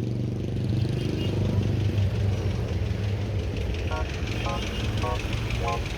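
City street traffic: vehicle engines running with a steady low rumble, with faint voices in the background. Four short pitched notes sound about half a second apart near the end.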